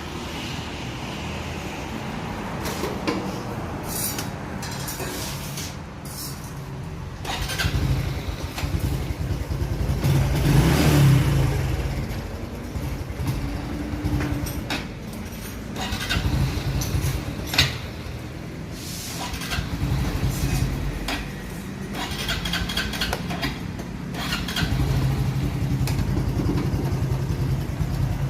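Honda Wave 110i's small fuel-injected single-cylinder four-stroke engine running, its revs swelling and dropping back again and again under the throttle, on a bike that bogs when throttled, which the mechanic puts down to a clogged fuel injector. Scattered sharp clicks, with one loud knock about two-thirds of the way in.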